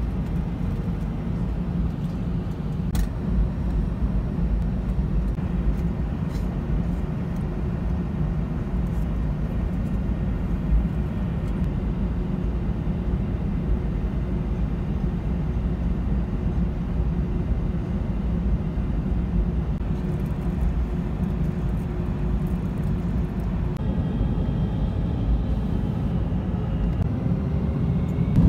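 Airliner cabin noise: a steady low rumble from the jet engines, with a faint whine that rises near the end as the engines begin to spool up.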